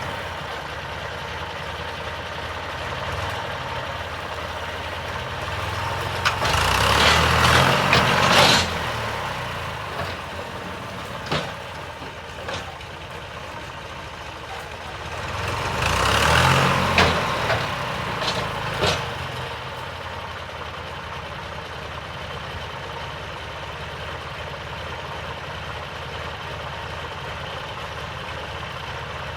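1988 50-hp John Deere tractor engine running steadily, revving up twice under load as the front bucket pushes against an oak tree, with a few sharp cracks or knocks during and after the louder stretches.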